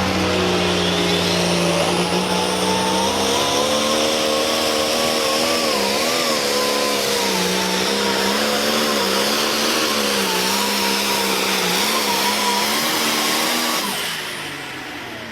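International Harvester pulling tractor's engine running at full throttle under load during a pull, its pitch wavering up and down, then dropping away about fourteen seconds in.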